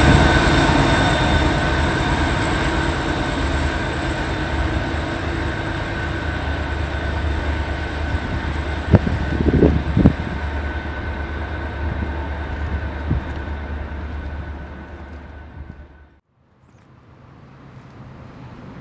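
Train rolling past and moving away, its rolling noise fading steadily, with steady high ringing tones from the wheels and a few sharp knocks about nine and ten seconds in. The sound cuts off abruptly about sixteen seconds in, leaving faint wind noise.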